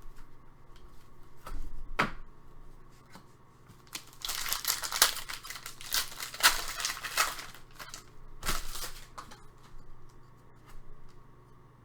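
Trading cards and their plastic sleeves being handled: a dense crinkling rustle about four seconds in that lasts some three seconds, a shorter one a little later, and light clicks between.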